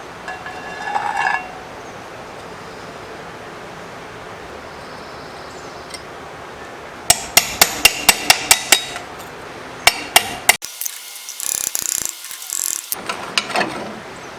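Hammer blows: a quick run of about eight sharp strikes, then a few more, followed by a couple of seconds of hissing scraping.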